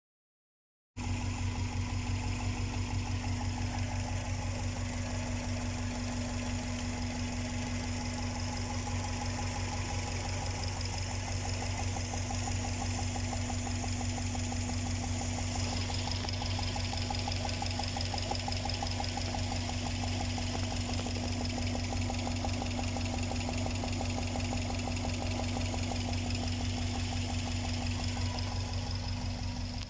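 Subaru EJ207 turbocharged flat-four idling steadily, with a fast, even tapping over the engine note, starting about a second in. The owner traces this EJ tapping to improperly torqued, loosened spark plugs.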